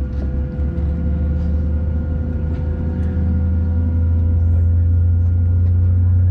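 Boeing 737-700 cabin noise: a steady low drone from the running engines and cabin air, with a few faint higher tones and some light rattles in the first second. The drone grows slightly louder about halfway through.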